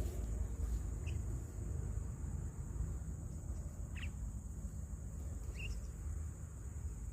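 Three brief, high bird chirps spaced a few seconds apart, over a steady high-pitched whine and a constant low rumble.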